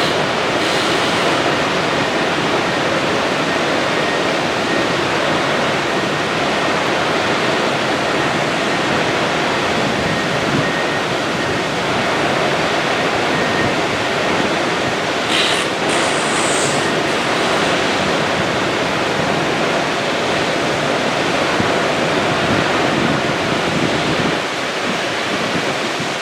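Steady, loud rushing noise with no clear rhythm, with a short high hiss about fifteen seconds in.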